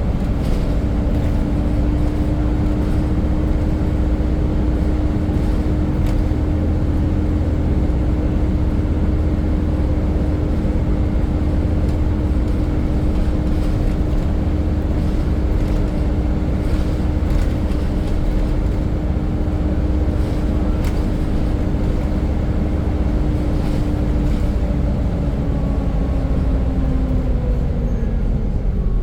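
Volvo B7 Gemini double-decker bus running under way, heard on board: a loud, steady hoover-like whine over a low rumble. Near the end the whine falls in pitch.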